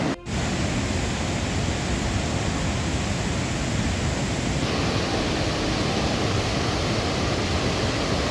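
Steady rushing roar of a swollen mountain river in flash flood. It drops out for an instant just after the start and changes tone about halfway through.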